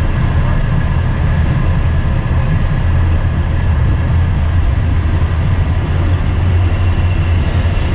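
Steady low rumble of cabin noise in the cockpit of an Embraer Phenom business jet: its engines and airflow, with a few faint steady tones above the rumble.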